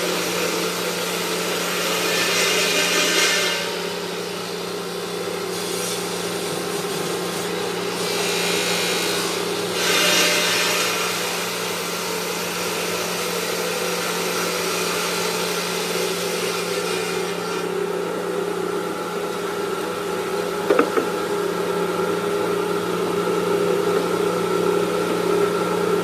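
Stone-working machinery running steadily with a constant hum, with louder stretches of grinding hiss twice in the first half and a sharp click near the end.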